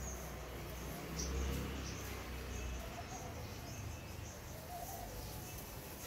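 Small birds chirping outdoors in short high chirps, repeated every second or so, over a low rumble that is heavier in the first half.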